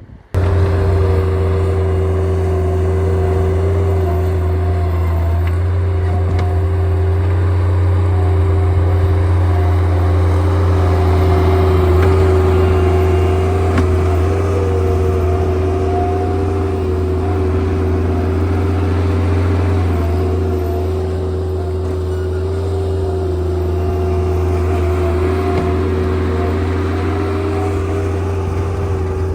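An engine running loudly at a steady speed, with a deep hum and a steady tone above it that wavers slightly. It cuts in abruptly at the start.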